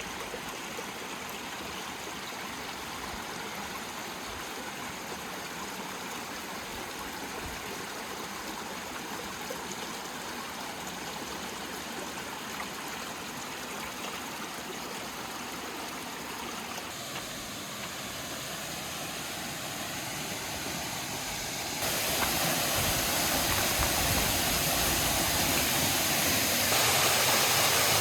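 Creek water rushing in a steady, even hiss. It grows louder in two sudden steps, about two-thirds of the way through and again near the end.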